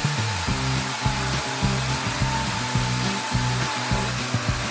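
Narwal S10 Pro robot vacuum-mop running with a steady fan-like whoosh and a faint high whine, under background music with a low, stepping bass line.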